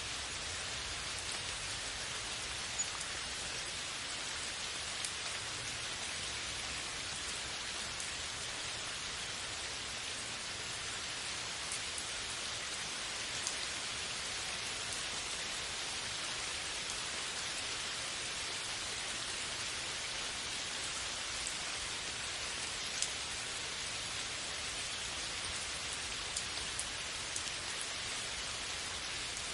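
Steady rainfall: a dense, even hiss of falling rain, with a few sharper ticks of single drops landing close by.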